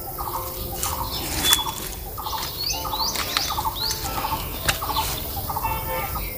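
Birds chirping and calling in short, quick notes that sweep downward, repeated all through, with a couple of sharp clicks.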